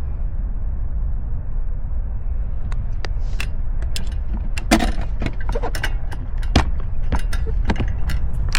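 Wind rumbling on the microphone, then from about three seconds in, many sharp irregular clicks and short splashes of water dripping and splashing off a sea kayak paddle close to the microphone.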